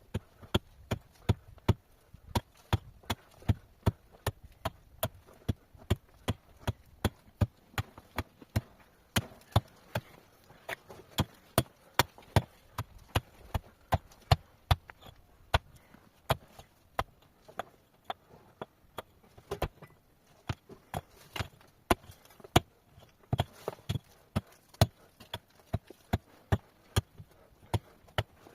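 Rock being chipped away with a hand tool: sharp, ringing strikes at about two to three a second, kept up steadily throughout.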